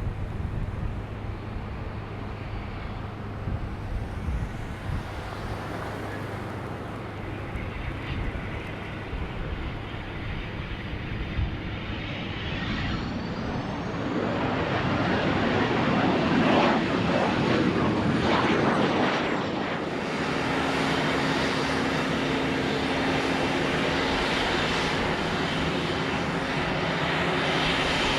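Airplane engine noise: a steady low hum that swells about halfway through into a louder pass with a thin high whine, then changes abruptly to a steady engine drone.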